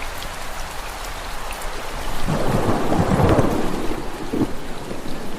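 Steady heavy rain, with a roll of thunder that swells about two seconds in and fades away after a couple of seconds.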